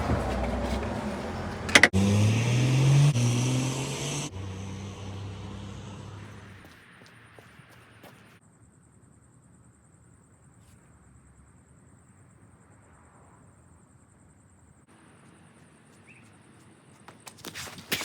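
A motor vehicle's engine running and rising in pitch in steps, then dying away, followed by quiet with a few knocks near the end.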